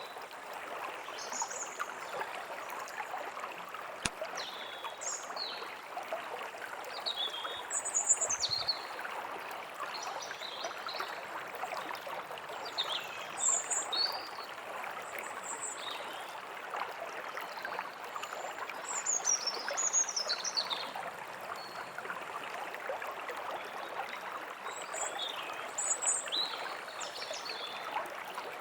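A stream running steadily, with small songbirds chirping and calling on and off over it, including short descending runs of chirps. A single faint click about four seconds in.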